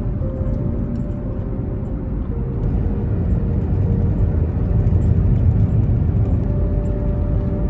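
Road noise of a car driving, heard from inside the cabin: a steady low rumble of tyres and engine that grows a little louder partway through.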